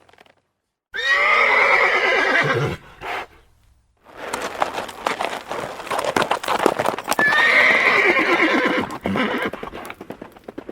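A horse whinnying: one loud, falling whinny, then after a short pause a clatter of hoofbeats with a second whinny over them, the hoofbeats trailing off near the end.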